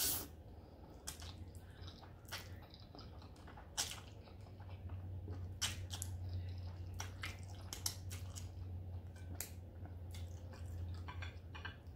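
A person chewing a mouthful of spicy black bean noodles, with many short, irregular mouth clicks and smacks, over a steady low hum.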